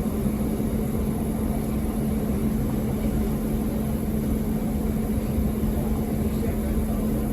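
Steady running drone of a passenger train heard from inside the carriage, with a constant low hum and no change in level.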